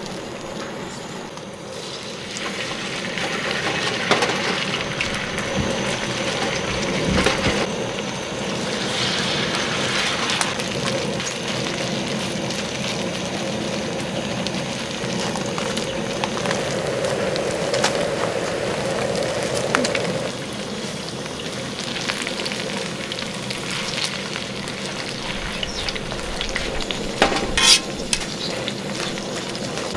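Kimchi pancake batter sizzling and frying in oil on a cast-iron pot-lid griddle, a steady hiss that grows louder about two seconds in. Near the end a metal spatula scrapes and clicks against the lid.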